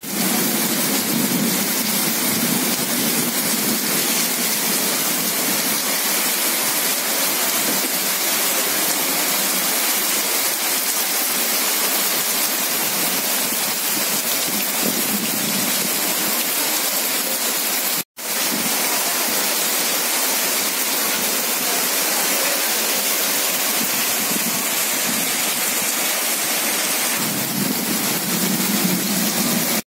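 Heavy rain pouring steadily, splashing into the floodwater covering the street. The sound cuts out briefly about 18 seconds in.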